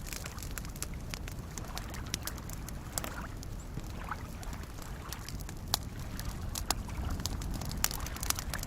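Wood campfire crackling, with sharp pops scattered throughout and the loudest ones in the second half, over a steady low wash of soft lake waves lapping.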